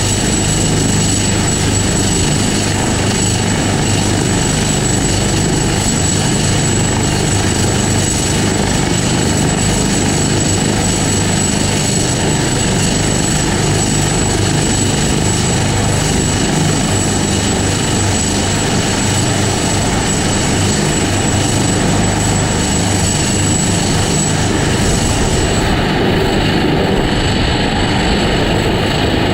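Helicopter running close by: a loud, steady din of rotor and turbine. A thin high whine over it drops away near the end.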